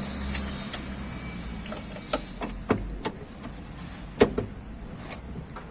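Scattered sharp metal clinks and knocks from hand tools working the exhaust bolts under the car, over a low steady hum that stops about three seconds in.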